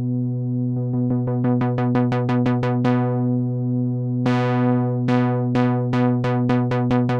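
Sequential analog synthesizer playing a held low note under a fast repeating sequence of about four short notes a second that starts about a second in. Around four seconds in the filter opens and the notes turn much brighter, each note's brightness quickly falling away.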